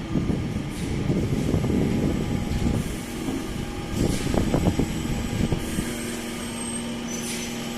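Metro train passing through a station at speed: a heavy rumble with rapid wheel clatter that dies down about six seconds in, leaving a steady hum.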